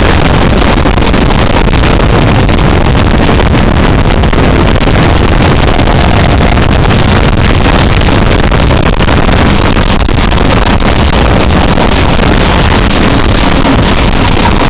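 Loud, steady running noise of a diesel-hauled passenger train at high speed, heard at the locomotive's end coupling: wheels on rail, the locomotive's diesel engine working, and rushing air buffeting the microphone.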